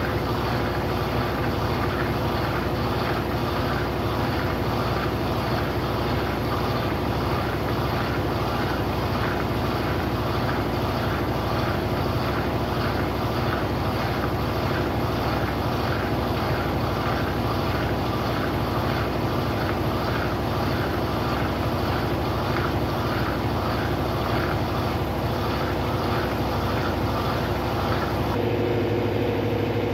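Brastemp Sexto Sentido 8 kg washing machine running, a steady motor whir with a regular pulsing in its sound. Shortly before the end its note changes and a new steady hum comes in.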